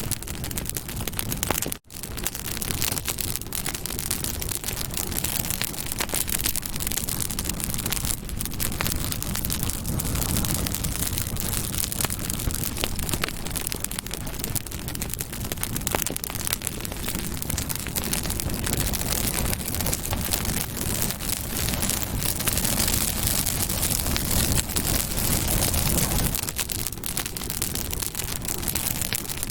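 Campfire burning, a steady crackling hiss with many sharp snaps and pops. The sound cuts out for an instant about two seconds in, then carries on.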